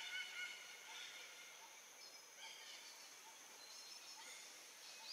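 Faint forest ambience with scattered distant bird calls; a run of evenly repeated chirps fades out about half a second in.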